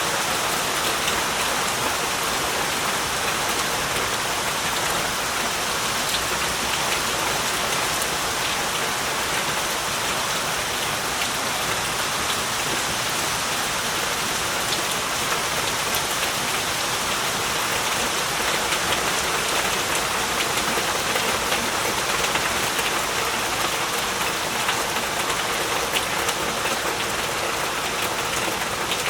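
Heavy rain falling steadily, a dense even hiss of rain with many individual drops pattering on surfaces.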